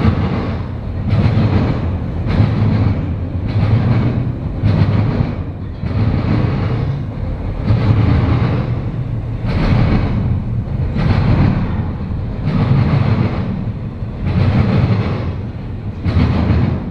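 Intermodal freight cars rolling past at speed, their wheel sets clattering over the rails in a repeating beat roughly every second or so.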